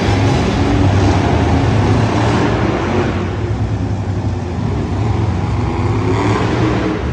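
Monster truck engine running loudly in an arena, with surges of revs about two and a half seconds in and again near the end.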